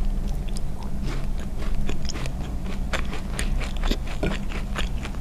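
Close-miked chewing of a corn Rami cookie: a quick, irregular run of small crunching clicks in the mouth, over a steady low hum.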